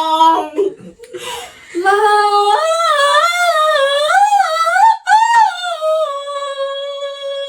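A high voice singing a long wordless vowel, unaccompanied: after a short breath about a second in, it climbs in steps, winds up and down in pitch, and settles on a steady held note near the end.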